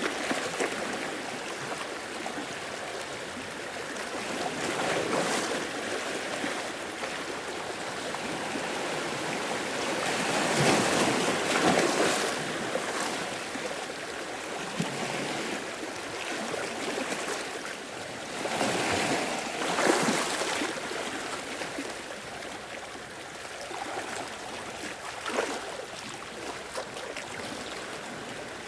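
Sea waves washing in and drawing back, a steady rushing wash that swells in several surges, the biggest about ten to thirteen seconds in and again about twenty seconds in.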